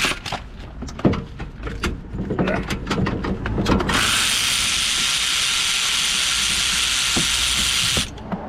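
Metal tools clicking and knocking while bolts are worked in the engine bay, then a power tool runs steadily for about four seconds and stops abruptly.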